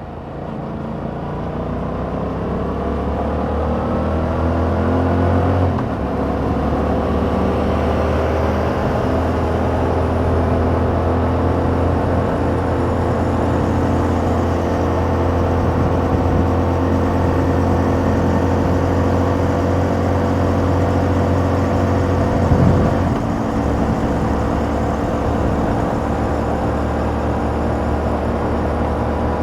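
2021 Yamaha MT-07's 689 cc parallel-twin engine through its stock exhaust, with a rising note as it accelerates hard. It shifts up about six seconds in, then holds a steady cruising note, with another brief gear change about three quarters of the way through.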